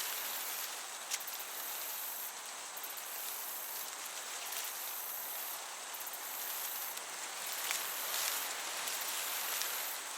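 Meadow ambience: crickets chirping in high trills that come and go every second or so, over a steady hiss of breeze, with a single sharp click about a second in.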